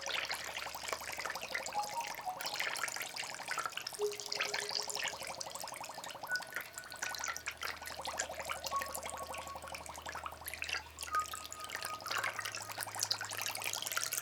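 Water trickling and splashing continuously, a busy patter of small drips and splashes. Faint soft ambient music sits underneath: a low drone and a few scattered held notes.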